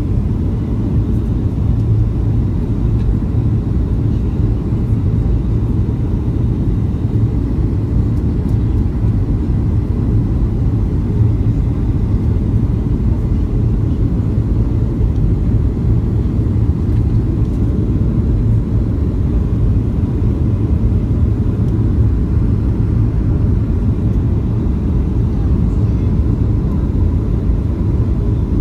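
Boeing 737-800 jet airliner in flight, heard from inside the cabin: a loud, steady rumble of engine and airflow noise with a faint constant hum above it, unchanging throughout.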